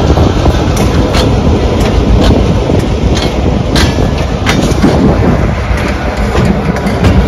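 Diesel-electric freight locomotive passing close and moving away, its engine working under load up a slight grade, with steel wheels clicking sharply over rail joints as loaded gondola cars roll by.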